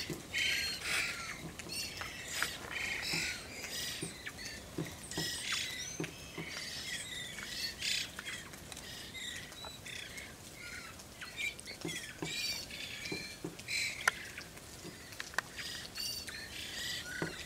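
A flock of varied thrushes calling over each other, a dense chatter of short trills and warbles, with steady rain falling.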